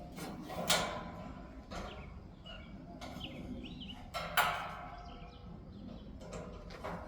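Scattered knocks and clatter from handling a vintage box fan while bending one of its blades by hand, with faint bird chirps in the middle.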